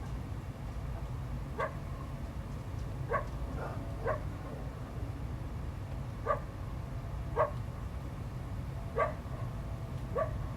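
A canine barking: about eight short, sharp barks, each sweeping up in pitch, spaced irregularly a second or more apart, over a steady low rumble.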